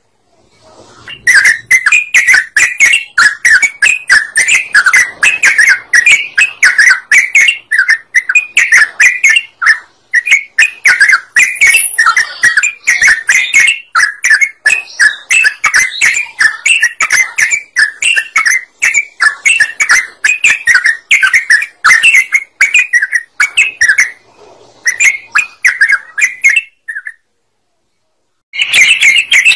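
Yellow-vented bulbul (trucukan) singing a loud, continuous run of rapid chattering, bubbling notes. It breaks off for a second or two near the end, then starts again.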